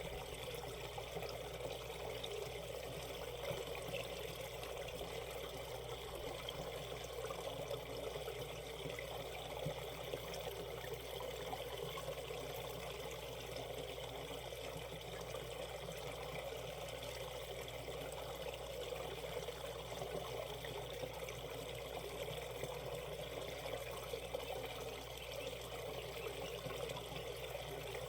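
Shallow mountain stream running over rocks, a steady rush and trickle of water.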